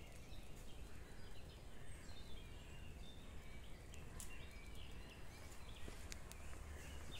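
Faint wild birdsong: scattered short chirps and trills over a steady low rumble, with a few sharp clicks.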